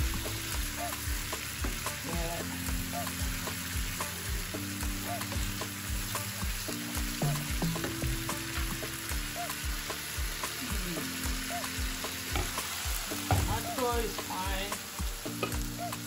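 Tomato and onion base sizzling as it fries in a pan, stirred and scraped with a wooden spatula. Afrobeat background music with a steady beat plays underneath.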